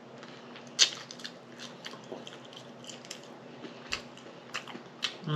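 A person chewing and biting food close to the microphone, with irregular wet clicks and mouth smacks, the sharpest a little under a second in.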